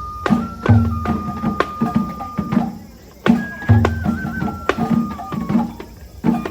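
Japanese festival hayashi music: a bamboo flute holds long notes with small steps in pitch over taiko drum strokes, the phrase coming round about every three seconds with a pair of heavier deep drum beats.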